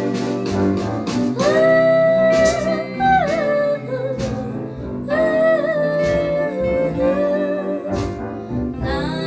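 Early-1960s pop ballad recording, a lead singer holding long notes with vibrato over a band with a steady beat, twice in a row.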